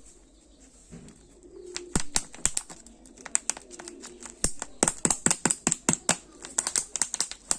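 Kinder Joy egg packaging being handled and unwrapped: a rapid, irregular string of sharp crinkling clicks starting about two seconds in.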